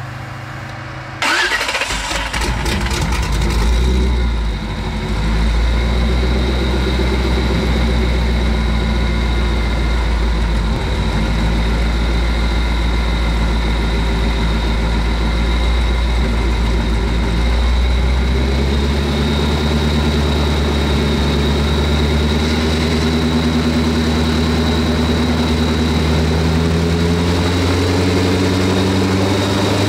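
A 5.3-litre GM truck V8 with a geared propeller reduction drive is cranked by its starter for about a second, fires, and settles into a steady run on the test stand. Its note rises a step about eighteen seconds in and holds there.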